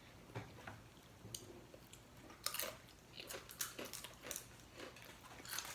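Crisp chips being bitten and chewed close to the microphone: irregular short crunches and crackles.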